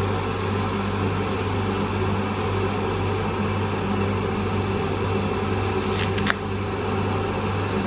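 A steady machine hum with a low drone and evenly spaced overtones above it, and two short clicks about six seconds in.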